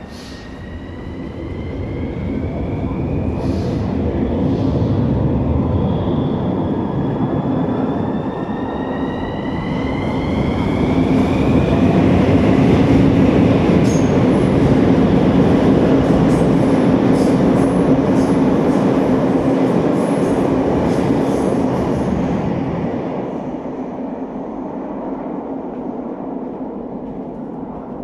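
CAF metro train pulling out of the station: its traction motors whine, climbing in pitch as it speeds up, over a building rumble of wheels on rail with sharp clicks and light squeals. The sound peaks in the middle and fades away near the end as the train leaves.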